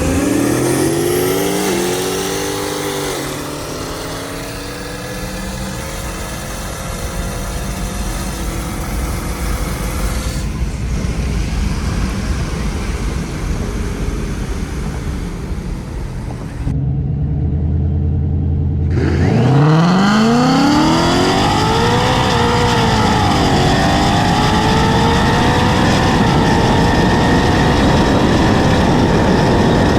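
High-powered V8 cars accelerating hard at full throttle, engine pitch climbing through the gears with drops at the shifts. After a low steady drone, a second hard pull climbs sharply from about two-thirds of the way in, eases back briefly, then keeps rising.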